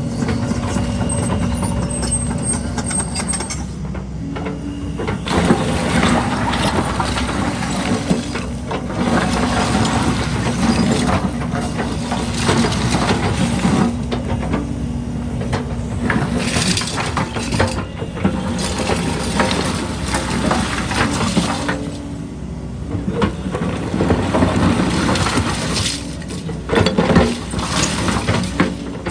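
Excavator diesel engine running steadily under load, with irregular clattering and scraping of concrete rubble for most of the stretch as the bucket works through the debris.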